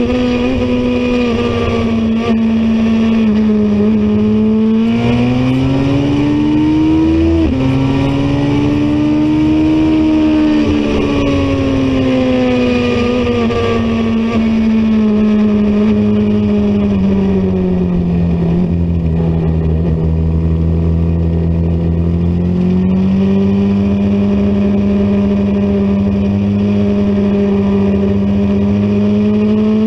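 Racing motorcycle engine running hard, its pitch climbing and falling again and again as it accelerates and slows. The pitch drops suddenly about seven seconds in and steps up again a little past twenty seconds, like gear changes.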